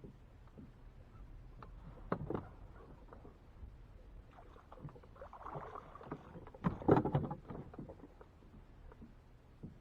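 Knocks and clunks on a fishing kayak: a couple of knocks about two seconds in and a louder cluster of clunks about seven seconds in.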